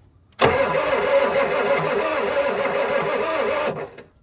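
Ford 7.3 IDI turbo diesel V8 being cranked on the starter for about three and a half seconds, turning over with an even rhythmic chug but never firing. The crew suspects no fuel is reaching the engine.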